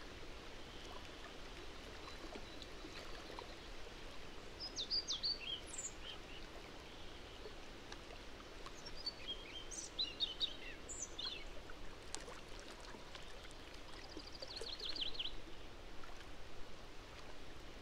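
Small birds calling in short, high chirping phrases over a steady faint outdoor hiss, with a quick trill of repeated notes later on.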